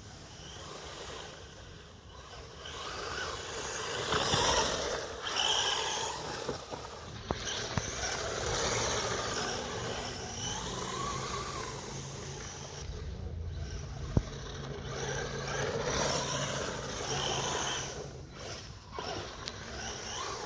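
Maverick Strada RX 1/10-scale brushless RC rally car driving along a woodland track: its electric motor whines, rising and falling in pitch as it accelerates and lifts off, over the noise of the tyres on the dirt. There are a couple of sharp knocks along the way.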